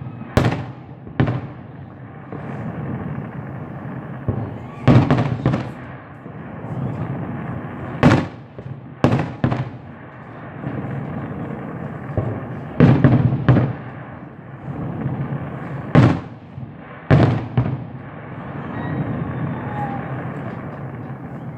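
Fireworks exploding: about a dozen sharp bangs, coming singly or in quick pairs every few seconds, over a steady background din.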